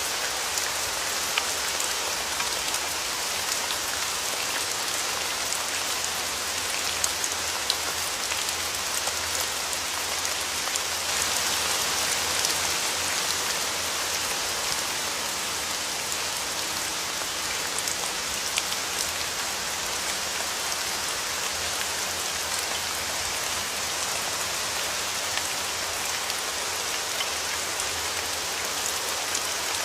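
Steady rainfall with distinct raindrops ticking on a surface, swelling slightly for a few seconds around the middle.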